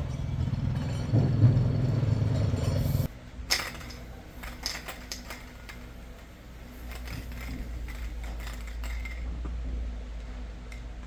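A machine running steadily, cutting off abruptly about three seconds in, followed by scattered light metallic clinks and knocks over a low hum.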